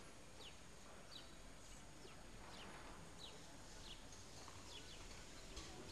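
Faint bird chirping: short high notes that drop quickly in pitch, repeated one or two times a second over a quiet hiss of the street.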